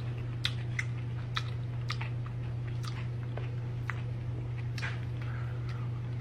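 Close-up chewing and biting of food by a person, with irregular sharp mouth clicks and crunches, over a steady low hum.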